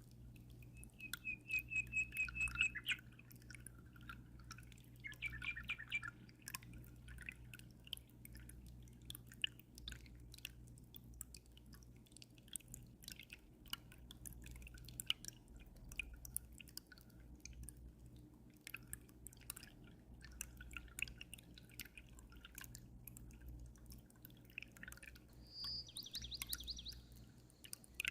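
Water dripping and trickling in an aquarium, a steady run of small splashes over a low steady hum. Small birds chirp over it: a trill about a second in, another around five seconds, and a brief call near the end.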